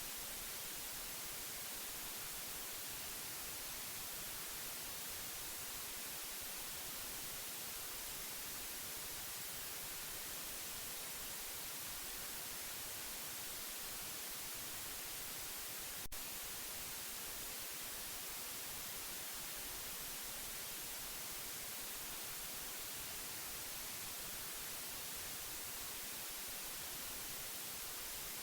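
Steady white noise, an even hiss that is strongest in the treble and never changes, with one brief click about sixteen seconds in.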